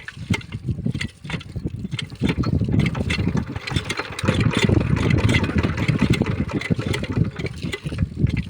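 Small single-cylinder diesel engine of a 5 hp water pump being hand-cranked and firing, a rapid chugging that picks up about two seconds in and gets louder again about four seconds in, as the engine tries to catch.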